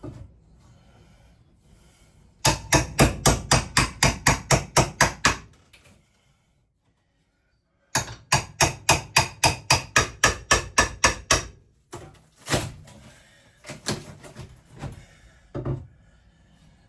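Rapid hammering, about four blows a second, in two runs of a few seconds each, then a few scattered knocks: knocking loose the interior fittings of a gutted camper.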